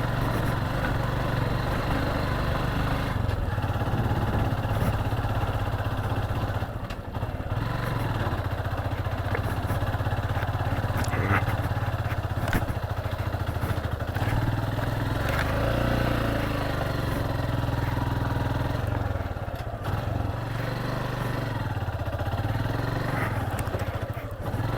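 Motorcycle engine running at low revs, its note rising and falling slightly now and then.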